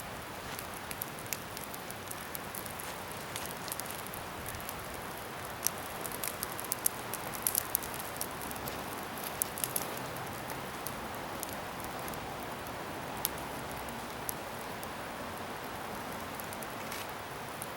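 Scrap-wood bonfire burning with a steady hiss and many sharp crackles and pops, thickest about six to ten seconds in.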